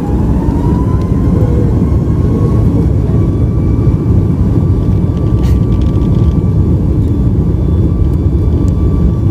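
Boeing 737 MAX 8 jet engines heard from inside the cabin at high thrust: a loud, steady rumble with an engine whine that climbs in pitch over the first second, then holds at a steady tone.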